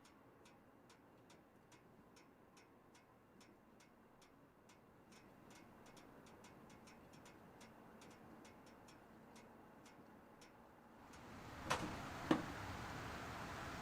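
Faint, steady mechanical ticking, evenly spaced at about three ticks a second. Near the end a louder rush of noise comes in, with two sharp clicks.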